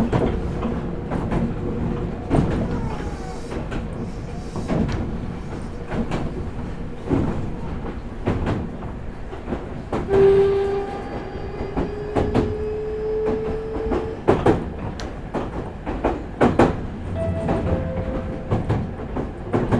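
Meitetsu 4000 series electric train running, heard from on board: a steady rumble with repeated rail-joint clicks. About halfway, a tone sets in and rises slightly in pitch over about four seconds.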